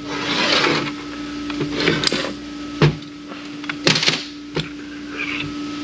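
Metal parts of a Ford AOD automatic transmission scraping and clinking as they are handled during disassembly, with a few sharp knocks about two, three and four seconds in. A steady hum runs underneath.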